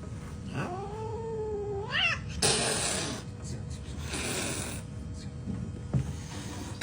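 A cat giving one long, drawn-out yowl that holds steady and then rises sharply in pitch at the end, followed by two short rushes of noise.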